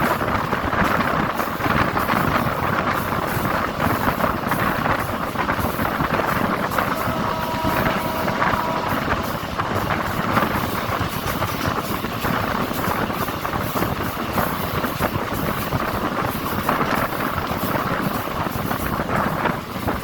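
A DEMU (diesel-electric multiple unit) passenger train running, a steady loud rumble with wind noise. About seven seconds in, a chord of steady tones sounds for about two seconds.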